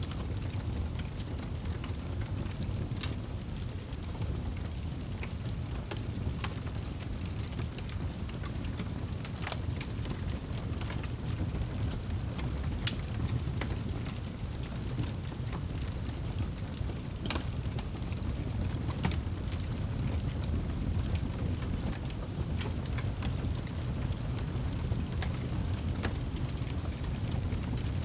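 Steady rain with a low rumble, with scattered sharp crackles and pops of a wood fire.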